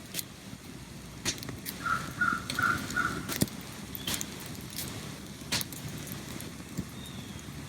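Woodland ambience: a bird gives a short note four times in quick succession, among scattered sharp clicks and crackles over a low rumbling background.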